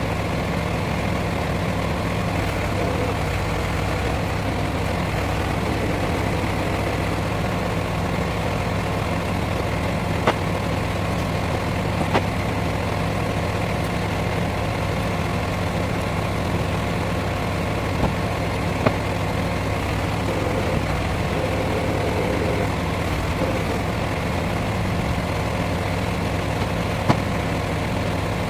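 Lorry engine idling steadily, with a few short sharp knocks scattered through it.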